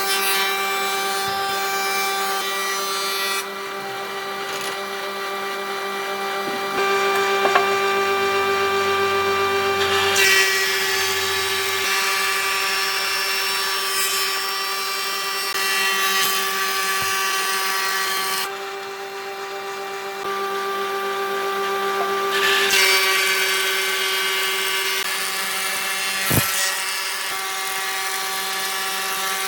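An electric power tool's motor running steadily with a constant whine while it works wood, cutting or sanding in several stretches that change abruptly. There is a single sharp knock near the end.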